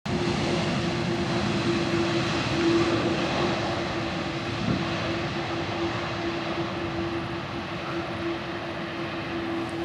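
Jet airliner's engines: a steady noisy drone with one steady hum running through it, slowly fading.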